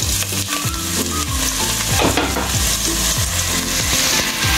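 Cut okra tipped into hot oil with dried red chillies and cumin, sizzling and frying steadily in an aluminium pot.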